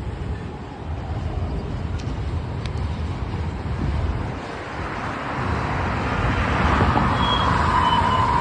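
Union Pacific manifest freight train rolling past: a steady low rumble that builds louder in the second half, with a thin high tone coming in near the end.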